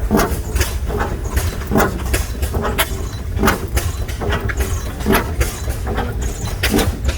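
Several large single-cylinder oilfield engines running slowly together. Their sharp exhaust beats come about every half second to a second, falling out of step with one another, over a steady low rumble.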